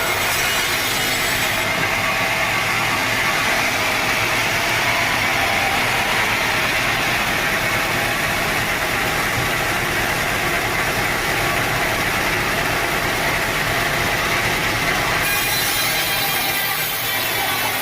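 Sawmill machinery running steadily, a continuous mechanical drone.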